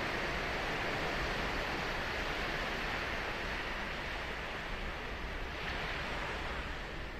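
Ocean surf washing on a sandy beach, a steady rushing wash that slowly fades a little.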